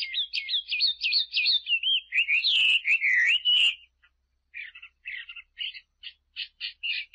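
A small songbird singing: quick runs of high chirps and whistled notes that slide up and down, with a brief pause about four seconds in before a further string of short, rapid chirps.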